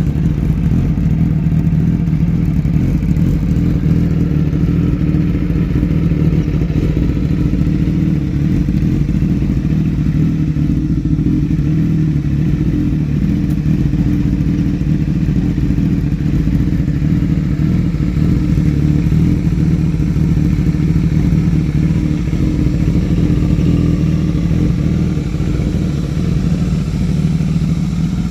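Suzuki GSX-S1000's inline-four engine idling steadily through an M4 aftermarket exhaust.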